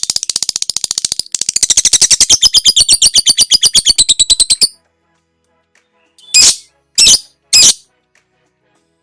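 Lovebird ngekek: a long, rapid chattering trill of sharp notes, about a dozen a second, that breaks off about five seconds in. It is followed by three short, loud shrieks a little over half a second apart.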